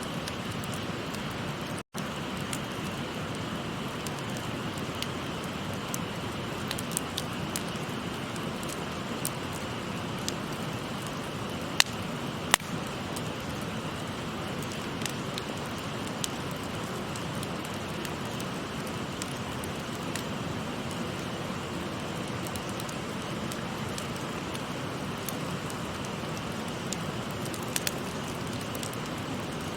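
Wood fire crackling with scattered sharp pops, two louder ones about twelve seconds in, over the steady rush of a babbling river.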